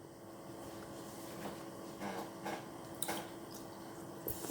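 Faint eating sounds of a person eating instant noodles: soft wet mouth smacks and a few short clicks, over a low steady hum.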